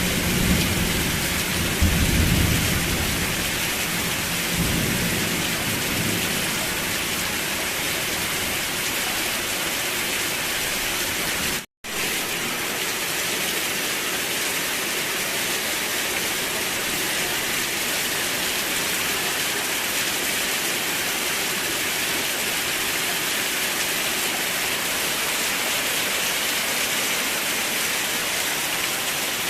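Heavy, steady rain with a rumble of thunder that fades out over the first few seconds. The sound cuts out for a moment a little before the middle, then the rain goes on evenly without the rumble.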